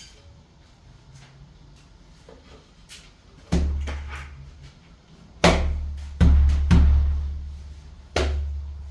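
Five heavy, irregularly spaced knocks, each followed by a deep booming decay, the loudest near the middle.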